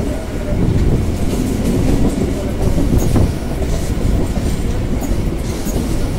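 Suburban electric local trains running side by side: a steady rumble of steel wheels on the rails with a clickety-clack over rail joints and points, one sharp knock about three seconds in and a few short high squeaks a couple of seconds later.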